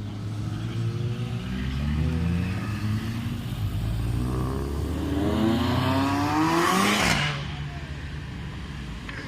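A car engine revving up, its pitch rising hard through the revs to a loud peak and then cutting off suddenly about seven seconds in, over another engine running steadily at low revs.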